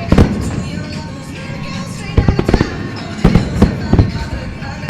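Fireworks shells bursting in quick clusters of sharp bangs: a group at the start, and more about two and three to four seconds in. The display's accompanying pop music plays underneath.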